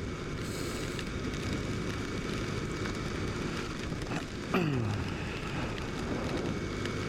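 KTM RC motorcycle riding through heavy rain: a steady rush of wind, rain and engine noise. About four and a half seconds in, a short tone drops sharply in pitch.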